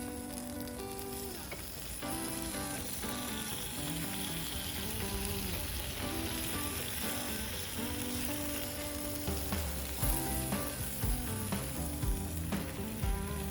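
Meat frying with a steady sizzle on a hot iron plate, with background music playing.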